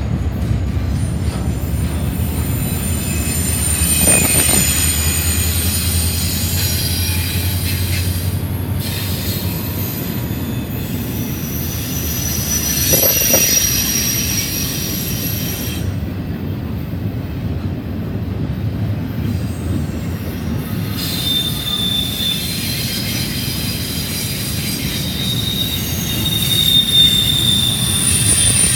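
Double-stack intermodal freight train rolling steadily past: a continuous low rumble of steel wheels on rail, overlaid with thin, high wheel squeals that come and go. A few louder swells and knocks occur as the cars pass.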